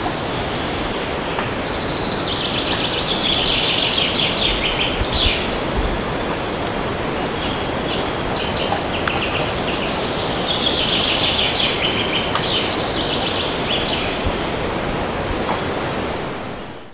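Steady wind rushing through a forest, with a songbird singing two rapid trilled phrases, one about two seconds in and one about ten seconds in, and a few scattered chirps between them. The sound fades out at the very end.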